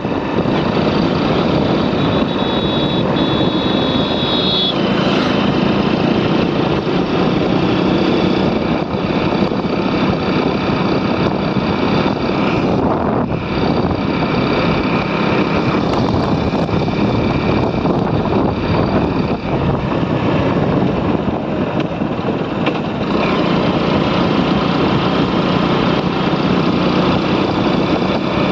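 Motorcycle riding along a road: the engine runs steadily under heavy wind rush on the microphone.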